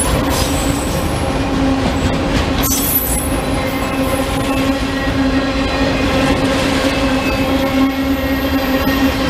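Train rolling past: a steady, loud rumble of railcars on the track under a steady low hum, with a sharp click about three seconds in and faint high-pitched wheel squeal at times.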